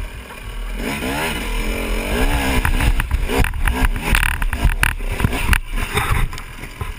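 Dirt bike engine revving up and down in rising and falling swells, followed by a run of sharp knocks and clatter.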